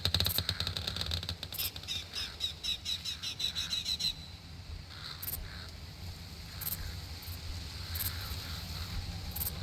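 Outdoor nature ambience: a fast, rattling chatter of animal calls that cuts off abruptly about four seconds in, followed by calmer background with a few faint high ticks, over a steady low rumble.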